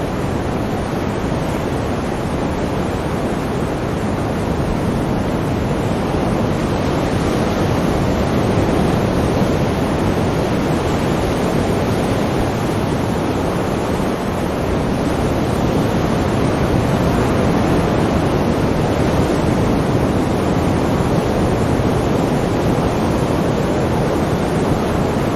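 Sea waves breaking and washing continuously, a dense even rush that swells slightly twice.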